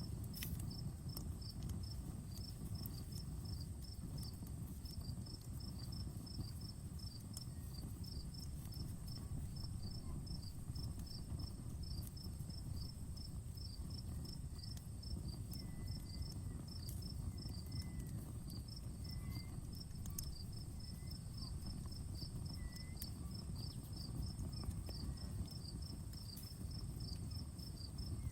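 Crickets chirping in a fast, even rhythm with a steady high insect trill above them, over the low rumble of a campfire that gives a few sharp crackles.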